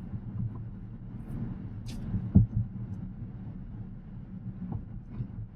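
Steady low road and tyre rumble heard inside the cabin of a Tesla Model X Plaid, with no engine sound. There are a few light knocks and one sharper thump about two and a half seconds in.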